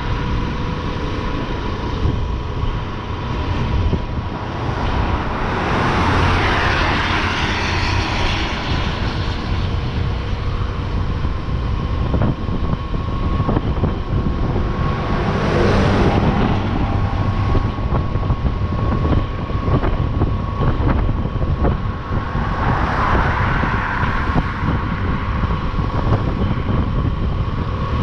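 Motorcycle on the move: steady engine and road rumble with wind rushing over the microphone, swelling into a louder rush three times.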